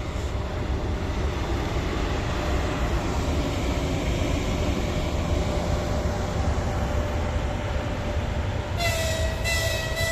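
Passenger train arriving and rolling past, a steady rumble of wheels on rails. About nine seconds in, a train horn sounds for about two seconds.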